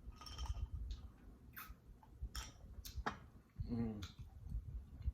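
Close-miked eating sounds: wet chewing with sharp mouth clicks and soft low thumps, and a short closed-mouth "mm" near four seconds in.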